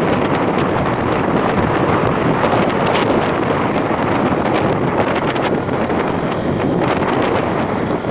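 Loud, steady wind buffeting the microphone while riding, with a few small knocks.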